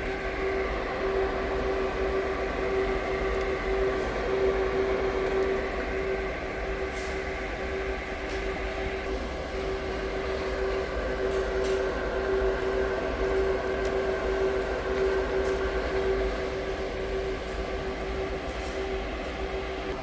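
A machine running steadily: a continuous drone with one constant mid-pitched tone.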